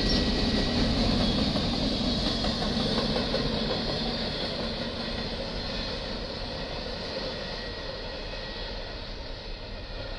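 Union Pacific double-stack intermodal freight train rolling past, its well cars clattering and rumbling on the rails, fading steadily as the end of the train pulls away.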